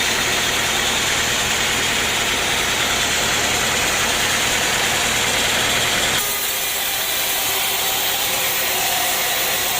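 Sawmill machinery running with a steady engine-like hum; the low part of the hum cuts off abruptly about six seconds in, leaving a steady higher mechanical noise.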